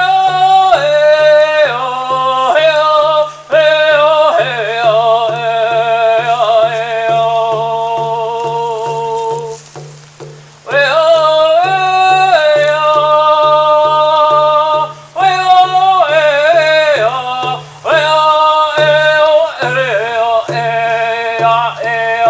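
A man singing a Native American spiritual chant in a strong, high voice, with long held, wavering notes and a short pause for breath about ten seconds in. A steady drum beat of about two to three strokes a second runs under it.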